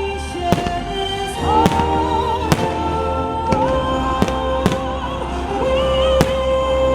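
Fireworks bursting in about seven sharp bangs, spaced unevenly, over the show's music soundtrack with long held notes.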